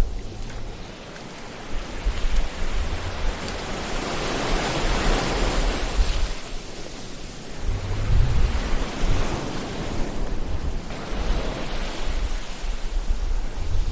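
Ocean surf: waves washing in and drawing back in slow swells with a deep rumble underneath, each surge building and fading over a few seconds.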